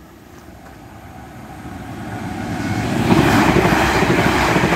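A London Northwestern Railway electric multiple unit approaching, growing steadily louder, then rushing past close by from about three seconds in with a loud, even rumble and hiss of wheels on rails.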